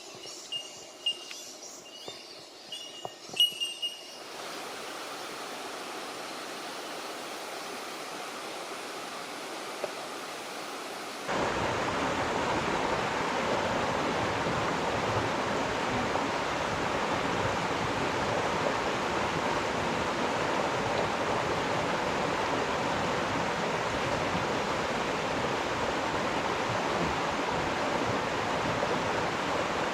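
Rushing creek water, a steady even rush that steps up louder about eleven seconds in. In the first few seconds a high, repeated chirp sounds over a few small clicks.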